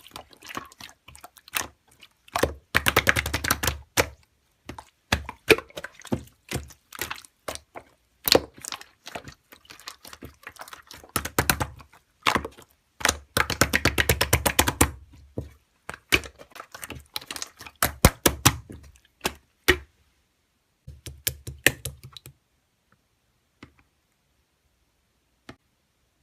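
Slime being played with by hand: a dense run of small clicks, pops and crackles, with two longer stretches of fast crackling. It stops a few seconds before the end, leaving only a couple of faint clicks.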